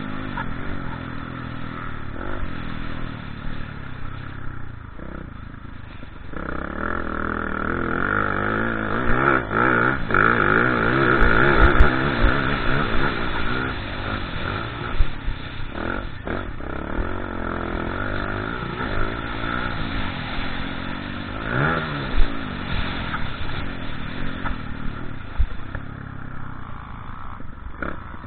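Motocross bike engines revving, their pitch rising and falling again and again through the throttle and gear changes, with a few sharp knocks.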